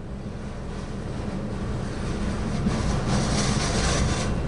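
Freight train cars rolling past: a steady rumble and rattle of steel wheels on the rails, growing gradually louder.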